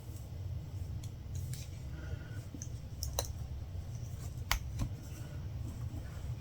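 Latch hook tool working yarn into the canvas: a handful of short, sharp clicks and ticks, spaced irregularly, the loudest about four and a half seconds in, over a steady low hum.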